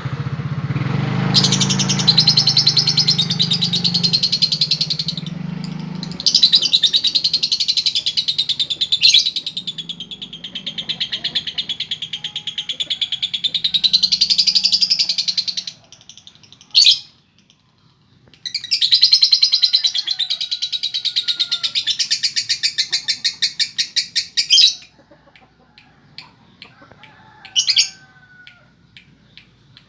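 Female lovebird chattering in long, rapid, unbroken trills, the long 'ngekek' that hobbyists call konslet in a hen. There are three runs of several seconds each, with short sharp calls between them near the middle and the end.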